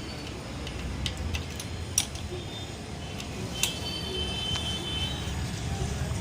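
A few sharp clicks, the loudest about two seconds in, over a steady low rumble.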